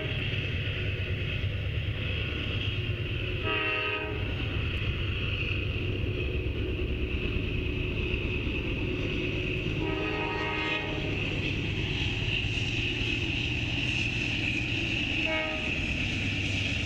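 Norfolk Southern double-stack intermodal freight train rolling by with a steady low rumble and high wheel-on-rail noise. The diesel locomotive's horn sounds three short blasts, about 3.5 s, 10 s and 15 s in.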